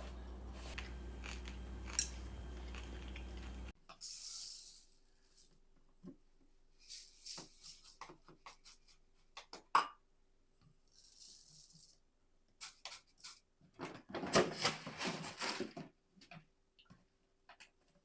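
Kitchen handling noises: packaging rustling and tearing, with scattered clicks and taps. Near the end comes a longer stretch of rustling. These follow a low steady hum that cuts off abruptly near the start.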